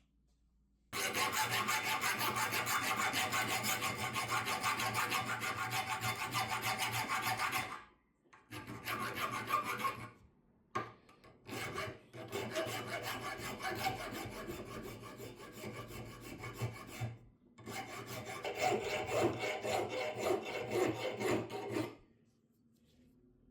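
Abrasive rust removal on a charcoal clothes iron's metal: a steady rasping scrub that starts about a second in and then comes in several shorter passes with brief gaps between them.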